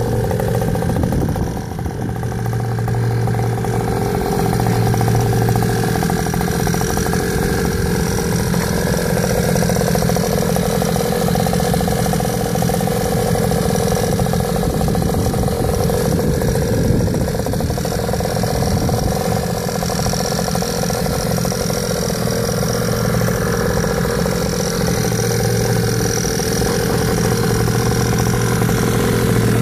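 Small 49cc two-stroke engine of a mini dirt bike running steadily at a low, fairly even speed.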